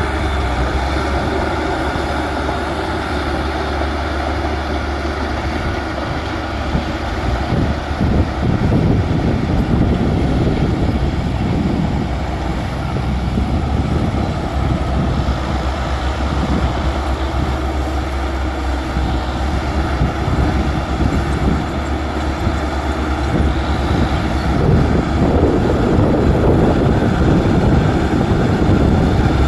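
Bulldozer's diesel engine running steadily and working under load, getting louder and rougher about seven seconds in and again near the end.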